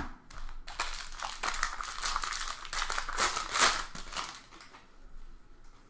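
Foil wrapper of a trading-card pack crinkling as it is torn open and handled, a dense crackle for about three seconds that then fades to lighter rustling.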